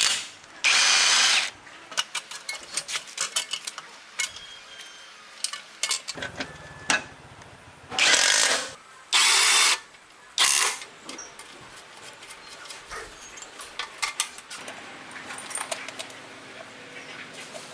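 Workshop sounds of hand tools on metal motorcycle parts: many small clicks, taps and clinks, broken by four short, loud hissing bursts.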